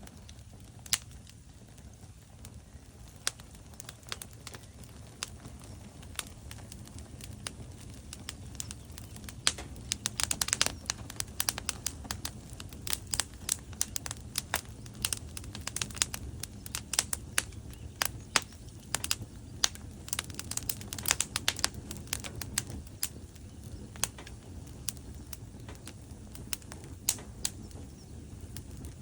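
Wood fire crackling: burning logs give off irregular sharp pops and snaps over a low steady rush of flame. The pops come thickest in a busy stretch through the middle.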